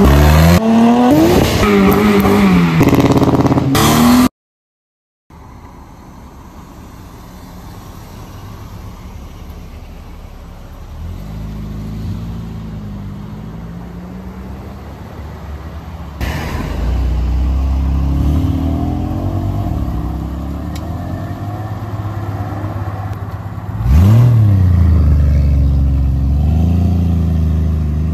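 Cars pulling away one after another. A car engine revs hard with rising and falling pitch for about four seconds, then cuts off suddenly into a second of silence. Quieter engines then run and pull away, with a sharp rev about 24 seconds in.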